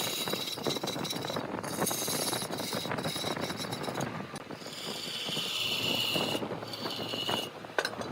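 Large wood lathe turning a workpiece while a turning tool cuts it, a rough crackling scrape with a high hiss that cuts in and out every second or two as the tool meets and leaves the wood.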